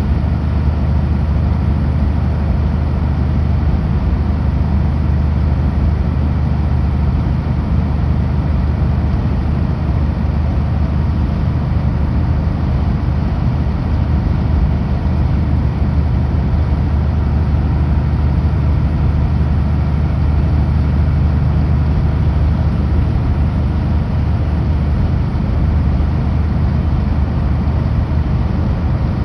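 Kenworth W900L semi truck's diesel engine running steadily at highway cruise, a constant low drone with road noise.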